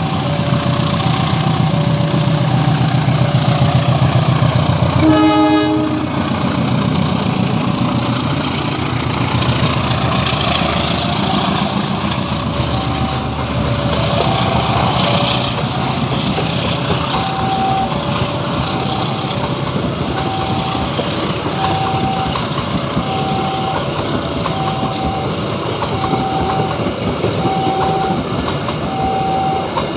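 Level-crossing alarm sounding a steady two-tone alternating signal while a train passes. A short train horn blast comes about five seconds in, followed by the running rumble and clatter of the train on the rails.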